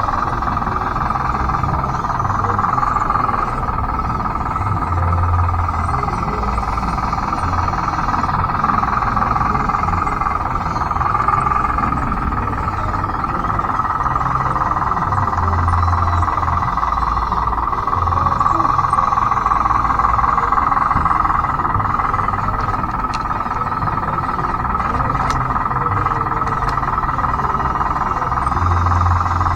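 A converted Bruder D5 RC bulldozer working, with a steady mechanical whine and grind and a few brief low rumbles.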